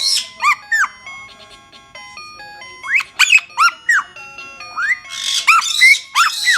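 An Amazon parrot whistling and screeching: clusters of short, sharp whistles that swoop up and down in pitch, about half a second in, around three to four seconds in, and again with harsher screeches near the end, over background music.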